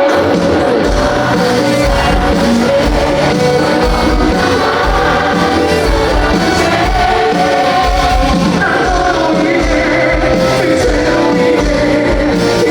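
Live rock band playing a song, with sung vocals over drums, bass and guitars, recorded from the audience at a concert.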